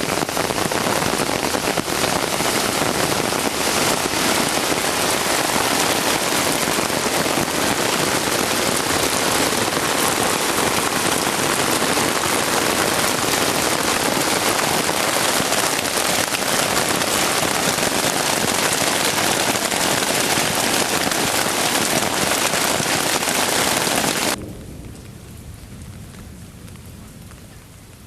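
Heavy rain pouring down in a dense, steady downpour during a thunderstorm. About 24 seconds in it cuts off abruptly to much quieter, lighter rain.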